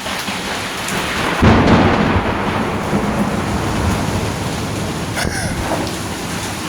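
A clap of thunder about a second and a half in, rumbling on for several seconds over the steady hiss of heavy rain.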